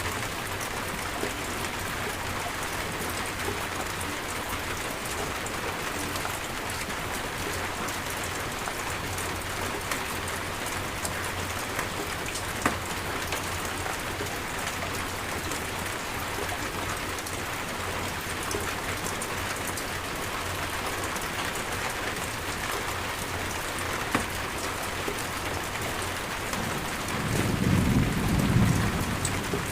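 Steady rain falling on surfaces, with the odd louder drop. Near the end a low rumble of thunder builds.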